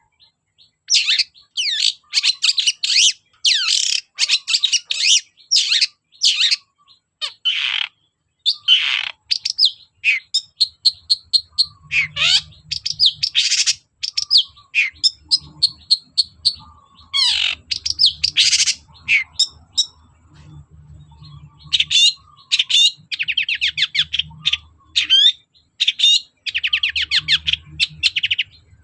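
Long-tailed shrike (cendet) in full song: a fast, varied run of harsh chattering notes, sharp downslurred calls and rapid trills, broken by brief pauses.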